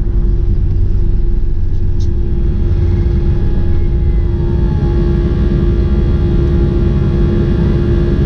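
A vehicle cruising at a steady speed: its engine hums at one pitch, under a heavy, steady rumble of wind and road noise.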